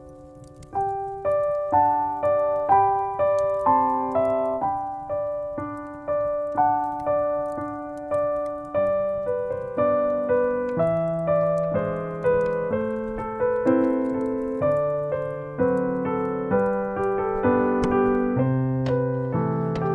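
Solo piano music: a slow melody over chords, each note struck and left to fade, with a new note or chord about every half second after a brief pause near the start.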